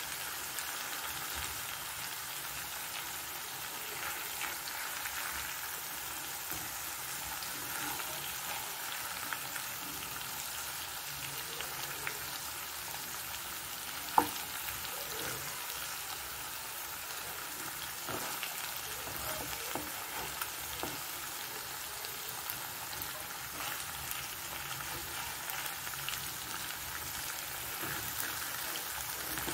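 Chicken pieces sizzling as they fry in oil in a pan during the final browning, with a spatula stirring and scraping among them. One sharper knock of the spatula comes about halfway through.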